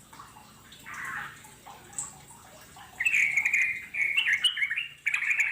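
Yellow-vented bulbul (trucukan) song: soft calls at first, then about three seconds in a loud, fast, chattering warble, breaking off briefly and starting again near the end.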